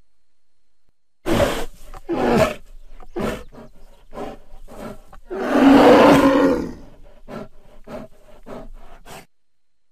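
Bear growls and roars as a film sound effect: a string of short, rough grunts and huffs, broken by one long, loud roar about five to seven seconds in, then quicker grunts that stop near the end.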